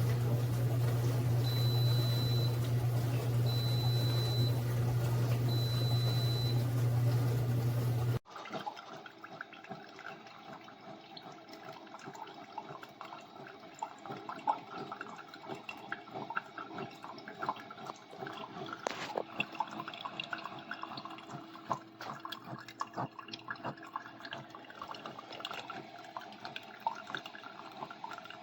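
Single-serve coffee maker running with a steady low hum, giving three short high beeps about two seconds apart. After an abrupt change it gives way to irregular dripping and trickling of liquid.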